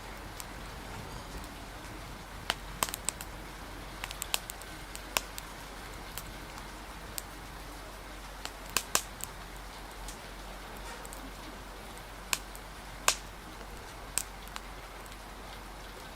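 Wood fire crackling with sharp, irregular pops, heard over a steady hiss of rain.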